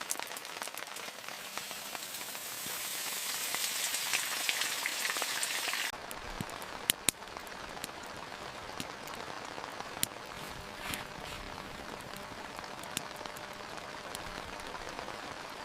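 Heavy rain falling steadily, a dense hiss with scattered drops tapping sharply. The rain's hiss changes abruptly about six seconds in, becoming less bright, and a couple of louder single drop taps follow soon after.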